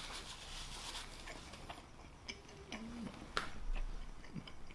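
Faint close-miked chewing of a bite of cheesesteak sandwich: soft wet mouth clicks and smacks, with one sharper click about three and a half seconds in.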